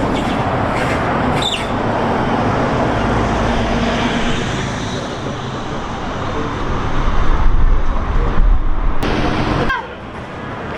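Street traffic noise with a low rumble that swells to its loudest about seven to nine seconds in, as of a vehicle passing close, then drops off suddenly near the end.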